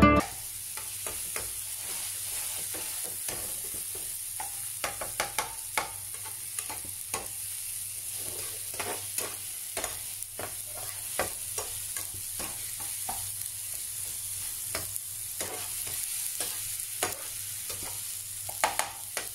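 Chopped onions and tomatoes sizzling in oil in a nonstick frying pan, with a steady hiss and frequent irregular clicks and scrapes of a metal spatula stirring against the pan.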